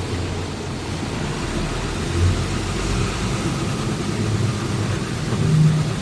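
Steady low rumble of a truck's engine and road noise heard from inside the cab, swelling briefly about two seconds in and again near the end.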